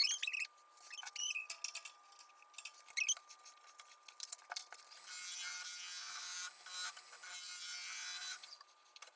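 Gouge cutting cottonwood on a spinning wood lathe. Short squeaky scrapes come early and again about three seconds in. A steady shaving hiss runs from about five seconds in until shortly before the end.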